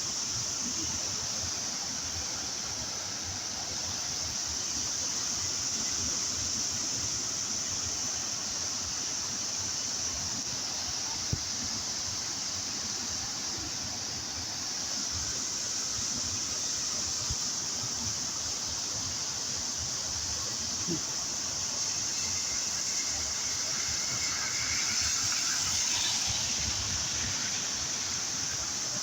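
Swollen, flooded river water rushing, under a constant high-pitched shrill hiss.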